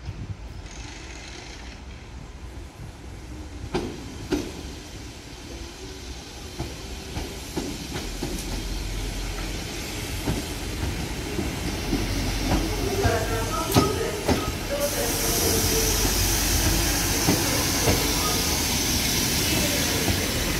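PolRegio SA137 (Pesa Link) diesel multiple unit pulling slowly into the platform, growing steadily louder as it draws close. Its wheels click sharply over rail joints, and a strong hiss comes in about three-quarters of the way through as it comes alongside.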